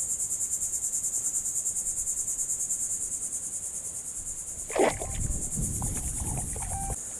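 Steady, rapidly pulsing high-pitched insect chorus. About five seconds in a brief sharp sound cuts through, followed by a couple of seconds of low rustling and knocking.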